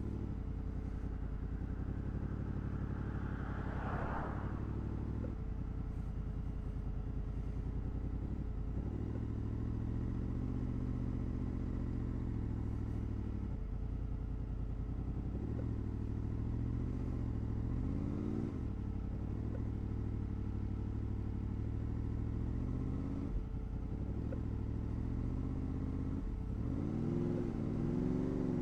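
Honda VFR800's V4 engine running on the road, revs rising and falling, with upward climbs in revs past the middle and near the end. A brief rising whoosh about four seconds in.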